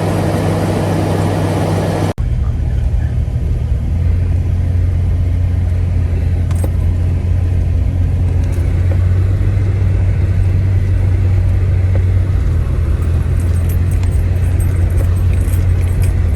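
2001 Jeep Cherokee XJ driving, a steady low engine and road drone. The sound drops out briefly about two seconds in and picks up again with less hiss.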